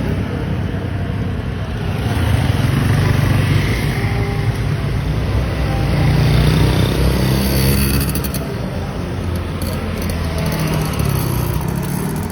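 Motorcycle running while being ridden, its engine note swelling and easing a couple of times over a steady rush of wind and road noise.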